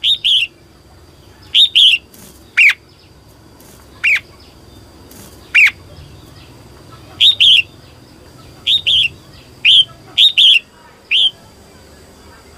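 Female red-whiskered bulbul calling: short, sharp chirps, many in quick pairs, with a few single notes that sweep steeply down in pitch, about ten calls spread irregularly.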